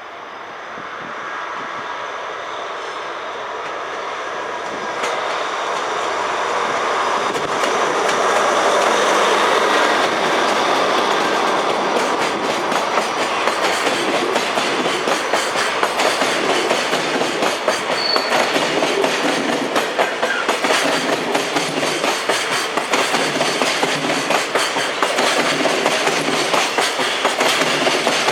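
Freight train passing, its wheels clicking over the rail joints. The rumble grows over the first several seconds as it approaches, then a fast, even clickety-clack carries on as the wagons run by.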